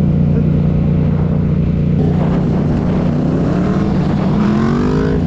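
Motorcycle engine running steadily at idle close by, a constant low drone.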